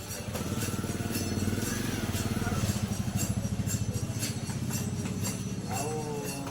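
Hero HF Deluxe's single-cylinder four-stroke engine running with a steady, fast low-pitched putter, the freshly rebuilt engine started after its final fitting.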